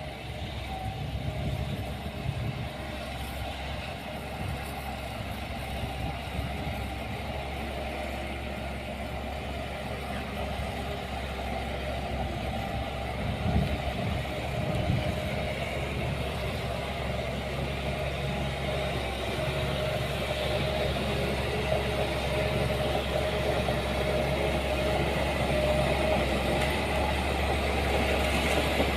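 Diesel engine of heavy earthmoving machinery running steadily, growing gradually louder.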